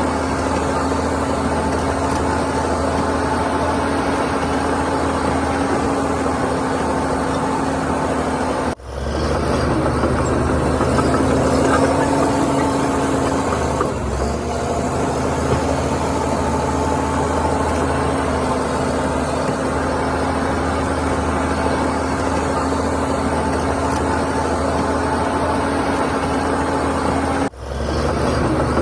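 Heavy diesel earthmoving machinery running steadily with a constant engine hum. The sound cuts out briefly and comes back twice, about nine seconds in and near the end.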